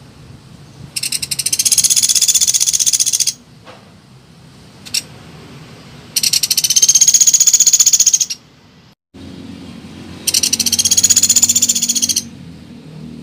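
Woodpecker known as pelatuk beras giving three long rapid rattling calls of fast, high repeated notes, each lasting about two seconds with short gaps between. It is a bird-lure playback recording. A single short click comes between the first and second calls.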